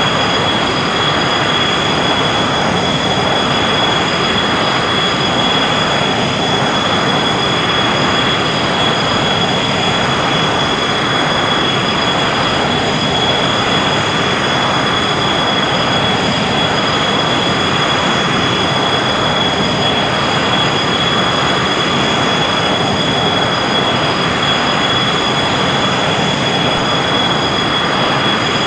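Jet aircraft engines running at a constant setting: a loud, even rush of noise with a steady high-pitched whine on top, unchanging throughout.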